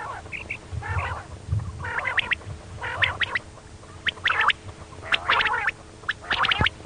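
Female common quail calling: short raspy 'kirik' calls repeated about once a second, six times.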